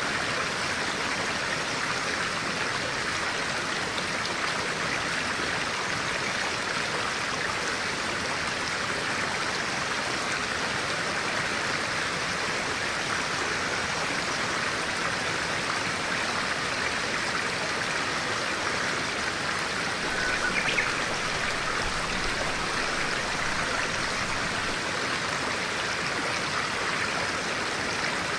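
A stream of clear water running steadily. There is one brief, slightly louder sound about three-quarters of the way through.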